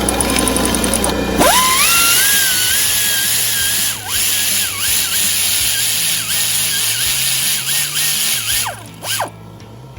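Cordless power tool on a socket extension, spinning out the idler pulley bolt. After a second or so of light clicking, its motor spins up with a quickly rising whine. It runs with short dips in pitch as the bolt loads it, then winds down and stops near the end.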